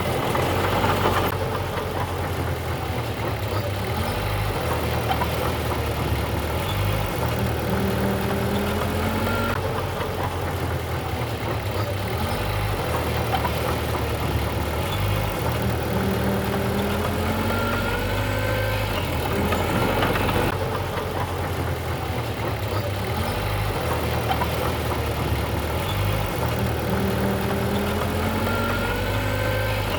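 Diesel engine of heavy earthmoving machinery running continuously. Its low note shifts every few seconds, with short rising whines as the load changes.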